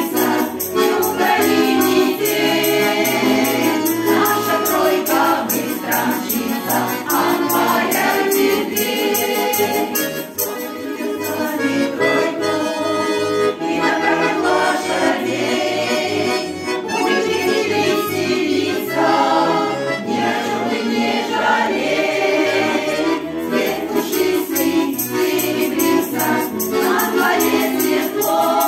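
Garmon (Russian button accordion) playing a lively Russian folk song, with voices singing along.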